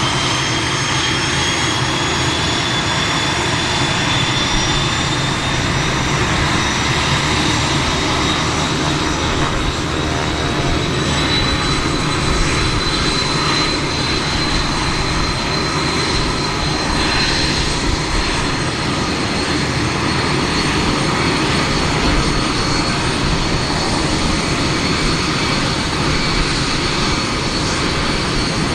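Cessna 501 Citation I/SP's Pratt & Whitney Canada JT15D turbofan engines running up on a ground engine test: a loud, steady jet roar with a high whine that slowly rises in pitch over the first half and then holds.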